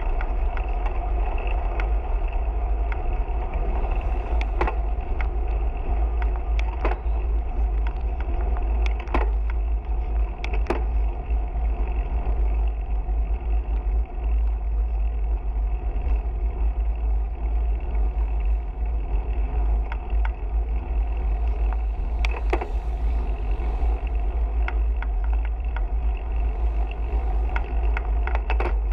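Steady wind rumble on the microphone with road noise from riding, and scattered short clicks and rattles.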